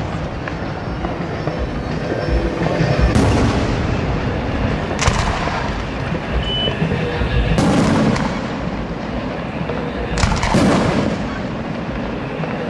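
Aerial firework shells bursting overhead, a sharp boom every two or three seconds, with echoes rolling between them.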